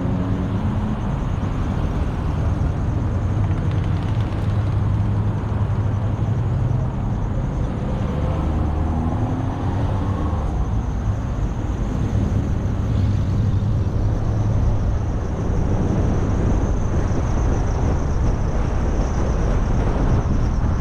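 Car driving on a road: steady engine and tyre noise with a low rumble, the engine pitch shifting briefly near the start and again about halfway.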